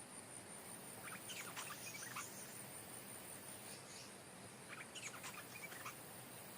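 Stripe-throated bulbul singing two short phrases of quick, liquid notes, one about a second in and one about five seconds in. A high, steady pulsing insect drone runs underneath.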